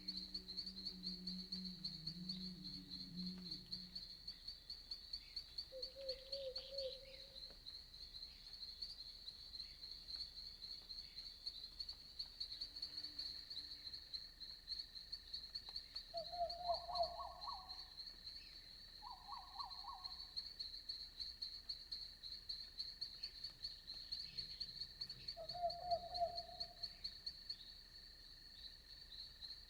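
Night chorus of crickets chirping in a steady, rapid high-pitched pulse, joined by a handful of short frog trills lasting a second or two each. In the first few seconds there is also a low pitched croak.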